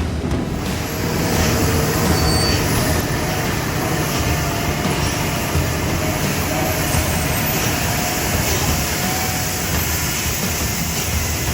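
Dump truck running, a loud steady rumble with a faint wavering whine above it.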